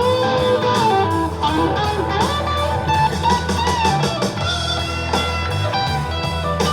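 Live music led by electric guitar, with pitched lines bending up and down over a steady low part.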